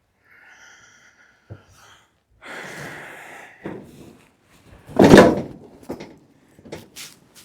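Workshop handling noise: a faint squeak, then a scraping rustle, then one heavy thump about five seconds in, followed by a couple of light knocks.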